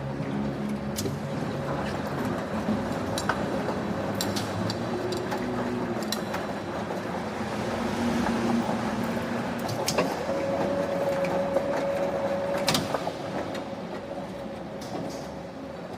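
Steady running of factory machinery in a bearing forging plant, with a held hum that grows louder for a couple of seconds from about 10 s in. Scattered sharp metallic clicks and knocks come through it, the strongest near the end.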